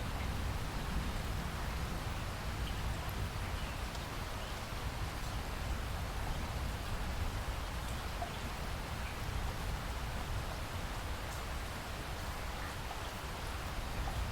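Steady rain falling, with a low, even rumble underneath.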